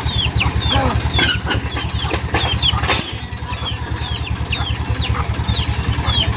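Mitsubishi Fuso Canter HDX dump truck's diesel engine running at a steady idle, with a rapid, even low throb. Birds chirp over it in quick, short falling notes, and there is a sharp click about three seconds in.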